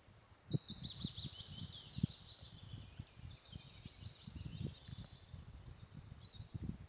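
A songbird singing one long song of rapid, high warbled notes. Underneath runs an irregular low thumping, which is the loudest part of the sound.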